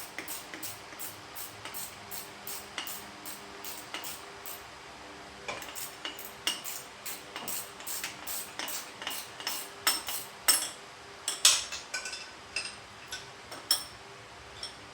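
Spanner on the engine mounting bolts of a motorcycle frame: a run of irregular metallic clicks and clinks as the bolts are worked loose, with a few sharper knocks partway through.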